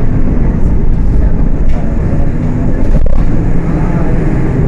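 Diesel engine of a Volksbus 18.280 OTS city bus running under way, heard from on board: a steady low drone with a brief lull about three seconds in.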